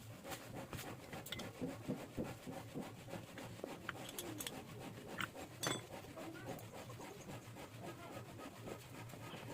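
Faint rubbing and scraping with scattered light clicks and taps: hand work with tools on an old diesel engine's cylinder head. The two sharpest clicks come a little after five seconds in.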